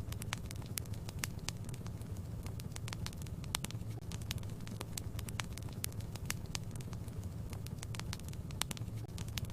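Wood fire in a fireplace crackling: many irregular sharp pops and snaps over a steady low rumble of the burning.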